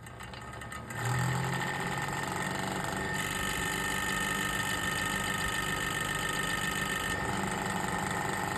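Cheap generic electric fan heater switched on, its fan motor spinning up over about a second and then running steadily with a bad-sounding mechanical drone, which the owner puts down to an unbalanced fan.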